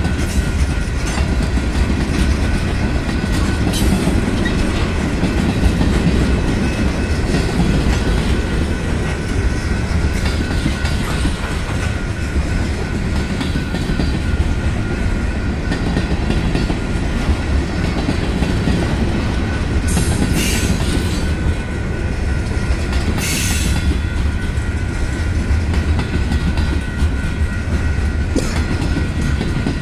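Freight train cars (tank cars, a covered hopper and a flatcar) rolling past at close range: a steady rumble of steel wheels on rail. A few brief, sharp high noises come about two-thirds of the way through.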